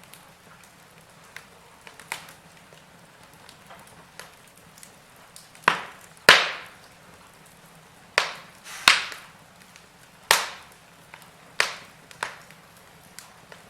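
Wood fire crackling in a fireplace: irregular sharp pops and snaps, the loudest about six seconds in, over a faint steady background.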